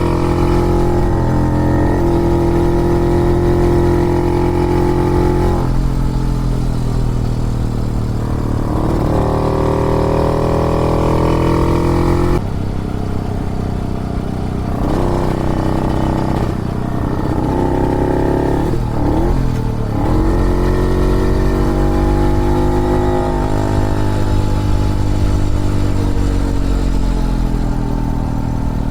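1950s Puch 250 TF motorcycle's split-single two-stroke engine running under way, the revs rising and falling again and again through corners and gear changes. Wind and road noise lie underneath.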